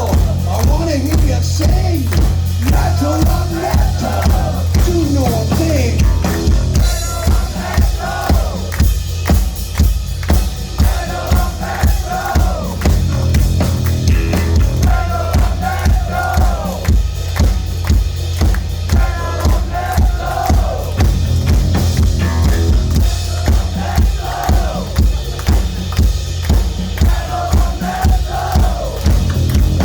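Live heavy metal band playing: a steady drum-and-bass pulse under distorted electric guitar, with bending lead-guitar lines over the top.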